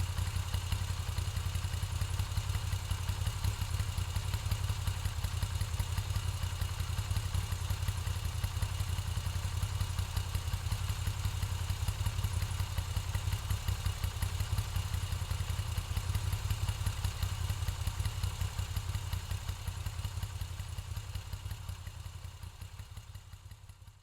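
Moto Guzzi V7 850's air-cooled transverse V-twin running steadily at idle through its stock exhaust, a fast even pulsing that fades out over the last few seconds.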